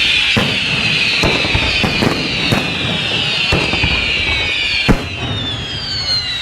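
Fireworks going off: many whistles sliding down in pitch at once, overlapping, with a string of sharp bangs, the loudest about five seconds in.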